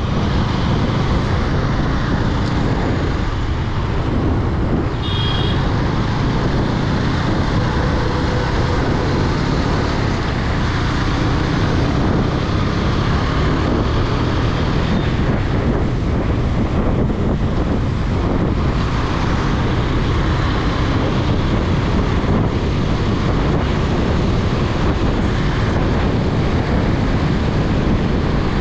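Riding noise from a KTM 250 Duke motorcycle: wind rushing over the microphone over a steady low engine drone and road noise. A short high beep comes about five seconds in.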